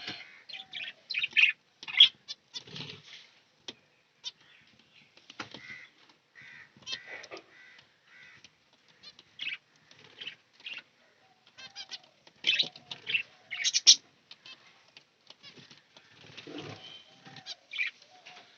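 Caged budgerigars and finches chirping and chattering in short, irregular bursts, with wings flapping now and then and a few sharp clicks.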